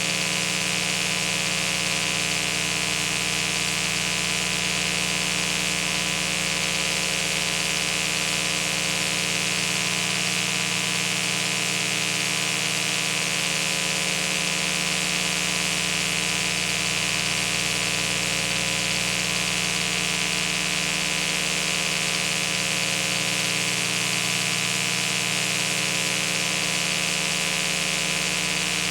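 Steady mechanical hum made of many constant tones over an even hiss, unchanging throughout.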